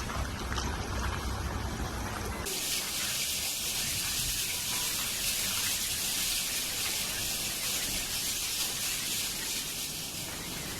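Storm water making a steady, even hiss. About two and a half seconds in it takes over abruptly from a lower, rumbling noise.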